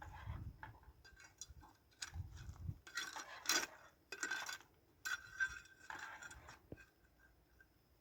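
Cooking utensils and cookware clinking and scraping in irregular bursts, quieter toward the end.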